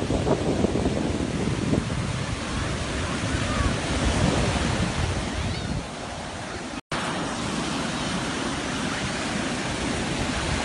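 Sea waves washing onto a shore, with wind buffeting the microphone. The sound drops out completely for an instant about seven seconds in.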